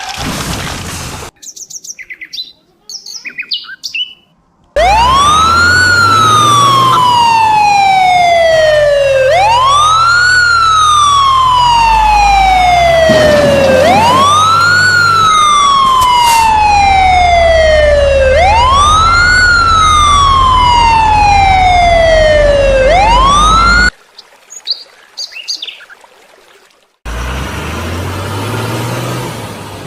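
Electronic siren wailing, each cycle a quick rise in pitch and a slow fall, about every four and a half seconds. It starts about five seconds in, runs for five cycles over a low hum and cuts off suddenly. A vehicle engine-like sound follows near the end.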